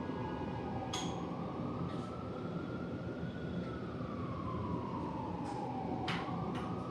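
Emergency vehicle siren in a slow wail, its pitch sliding down and back up about once every five seconds, over steady background noise. Two sharp clicks come about a second in and near the end.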